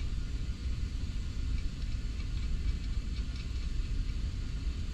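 Steady low engine-like rumble, with a few faint light clicks of small metal parts being handled.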